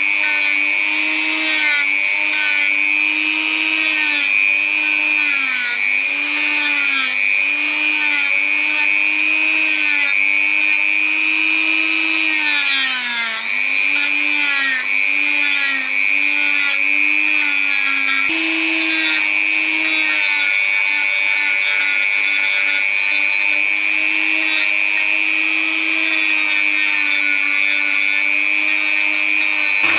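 Electric woodworking saw running steadily and cutting pine. Its motor pitch dips and recovers again and again as the blade takes load in the wood.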